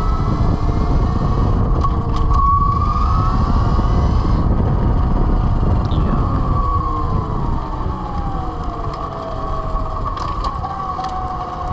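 Electric motorcycle motor whine over heavy wind rush on the microphone while riding. The whine holds a steady pitch, breaks off briefly about two seconds in, then falls in pitch from about halfway as the bike slows.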